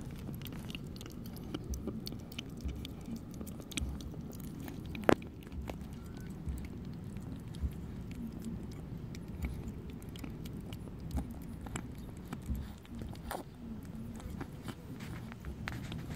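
A cat chewing food, with many small irregular clicks and one sharper knock about five seconds in.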